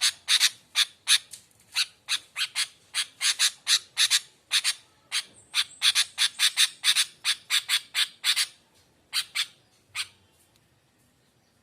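Sooty-headed bulbul (kutilang) giving a rapid series of short, sharp chattering calls, about three a second, that stop about ten seconds in.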